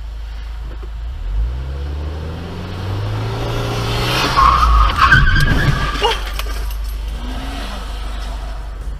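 A car's engine speeds up with rising pitch. Then tyres squeal and skid about four seconds in, the loudest part, with a few sharp knocks around five to six seconds.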